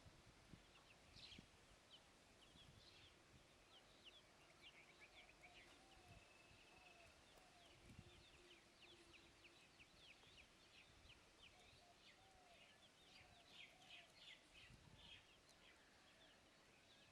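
Faint, rapid chirping and twittering of small birds, with many short high calls that thicken into a busy flurry near the end.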